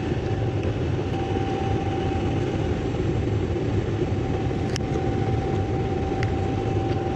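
Steady mechanical running noise: a low hum with a faint steady whine above it, and a few light clicks.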